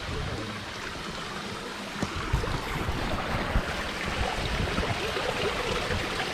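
Steady rush of water from a hill-stream waterfall, with irregular low thumps on the microphone from about two seconds in.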